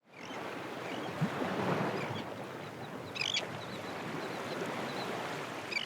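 Nature ambience: a steady wash of water noise with a few bird calls, including a short burst of high chirps about three seconds in.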